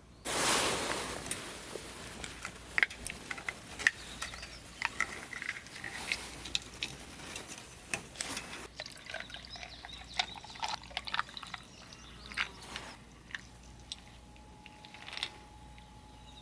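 A short rush of water splashing or pouring out, followed by scattered drips and small clicks.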